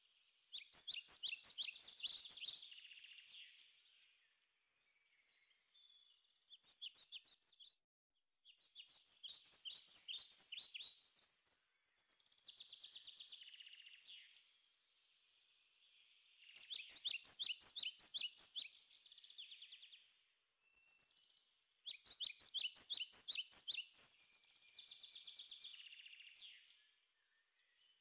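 A songbird singing: repeated phrases of fast, high chirping trills, each one to three seconds long, coming every few seconds.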